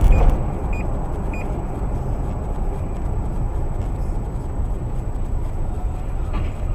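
Steady low rumble of a car's engine and road noise heard inside the dash-cam car, with a brief bump right at the start. A short high beep repeats about every 0.6 s and stops about a second and a half in.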